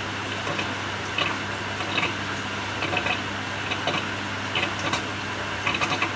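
Samsung 6.5 kg top-loading washing machine running mid-cycle: a steady motor hum with irregular clicks and knocks, a few a second.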